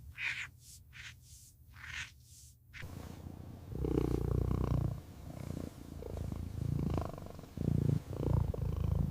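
Cat purring: a low, pulsing rumble that sets in about three seconds in, after a few short breathy puffs.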